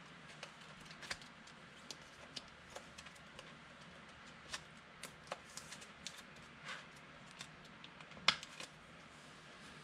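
Trading cards being handled and flipped through, with scattered light clicks and brief slides of card on card; the sharpest click comes about eight seconds in.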